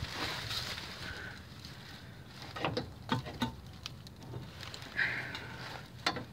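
A few short clicks and knocks of parts being handled, in a cluster about three seconds in and once more near the end, with a brief scuff about five seconds in over a faint steady low hum.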